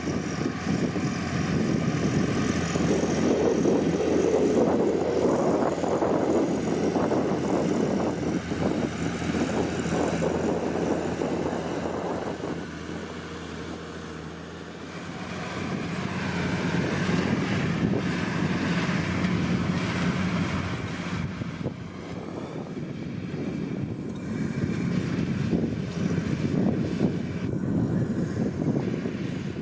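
John Deere 8520T tracked tractor's 8.1-litre PowerTech six-cylinder diesel running while pulling a four-furrow plough. It swells and fades as the tractor moves, dropping off about halfway through, then growing loud again.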